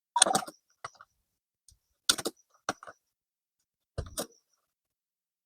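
A series of sharp metallic clicks and clacks, about five short groups spaced a second or so apart, from handling a CZ 457 MTR bolt-action rimfire rifle, typical of its bolt being worked between shots.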